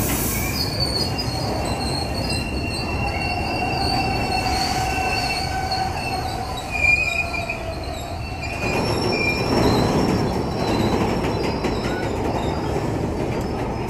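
Freight train of tank wagons rolling past with a steady rumble, its wheels squealing in high thin tones. About two thirds of the way through the squeal fades and the rumble and wheel clatter grow louder as the wagons pass close.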